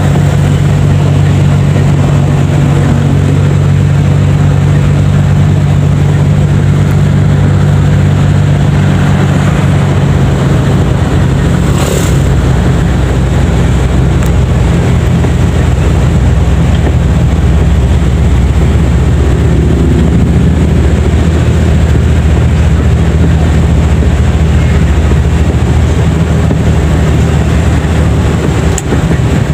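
Daihatsu Charade G10's three-cylinder engine running steadily while driving, with engine and road noise heard from inside the cabin. One sharp click about twelve seconds in.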